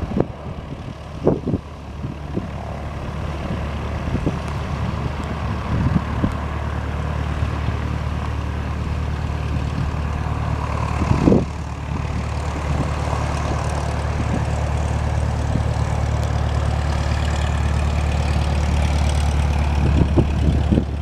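Socata TBM 910's Pratt & Whitney PT6A-66D turboprop engine and propeller at high power, a steady drone that grows gradually louder. Gusts of wind buffet the microphone now and then.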